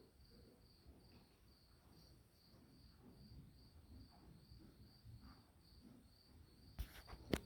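Insects chirping faintly and steadily, a high pulsing chirp about three times a second, over a low background rumble; two sharp clicks near the end, the second one louder.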